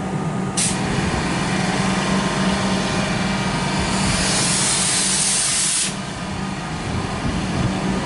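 Metro suburban electric train departing the platform, running with a steady low hum, while a loud hiss of air comes in under a second in, grows stronger and cuts off suddenly about six seconds in.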